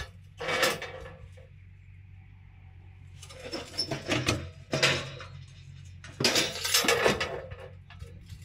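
Metal clattering and clinking in three short bursts of knocks and rattles, as iron parts are handled, over a steady low hum.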